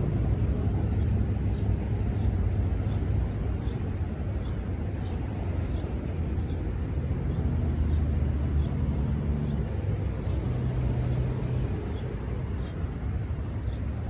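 A bird repeats a short, high chirp a bit faster than once a second over a steady low rumble.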